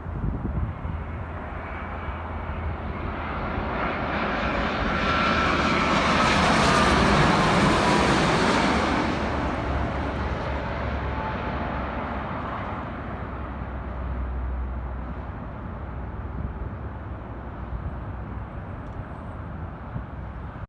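Arriving airliner passing close by on final approach: engine noise builds to a peak about seven seconds in and then fades, with a whine that falls in pitch as it goes past.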